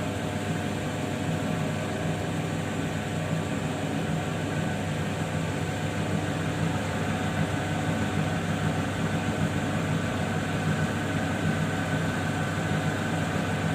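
Lapidary wheel machine's electric motor running steadily with a low, even hum.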